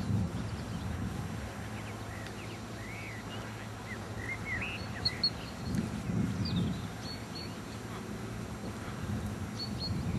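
Small birds chirping in short, high calls over a low outdoor rumble of wind.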